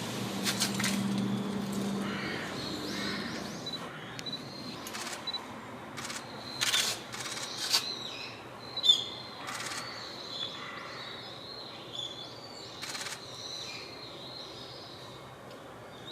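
Wild birds calling: short, high chirps from several small birds scattered throughout, with a few sharper, louder calls in the middle. A low dove coo sounds in the first two seconds.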